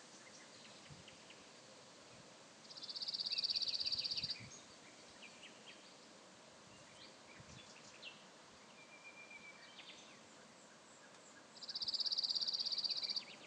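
Outdoor nature ambience with scattered high bird chirps. Twice, a loud high buzzing trill of rapid even pulses lasts about a second and a half, swelling quickly and then cutting off.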